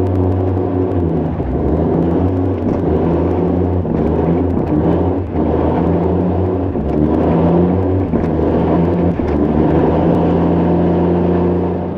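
Kenworth C500 truck's Cummins diesel engine pulling under load, its pitch stepping up and down every second or two as it works through the gears.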